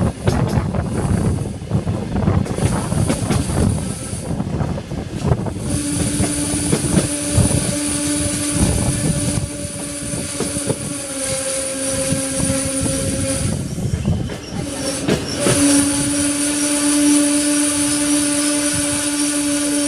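Diesel passenger train running into a station. The wheels rumble and clatter over the track for the first few seconds. From about six seconds in a steady metallic squeal sets in as the train slows, breaking off briefly near fourteen seconds before returning.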